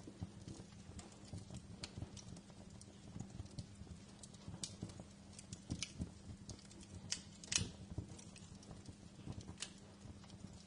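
Wood fire crackling: irregular small pops and snaps, with one sharper pop about three-quarters of the way through, over a faint steady low hum.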